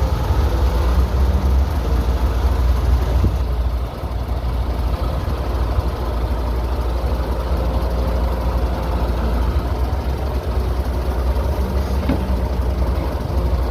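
Diesel engine of heavy construction machinery running steadily with a deep low rumble, easing slightly a few seconds in.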